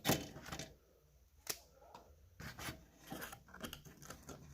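Rustling and crinkling of a package as an exhaust repair wrap is pushed into it, with scattered clicks and one sharp tick about one and a half seconds in.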